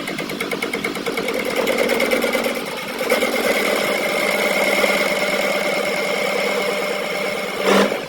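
A workshop machine running steadily with a whine and a fast, even chatter, changing slightly about three seconds in. A brief loud burst comes near the end.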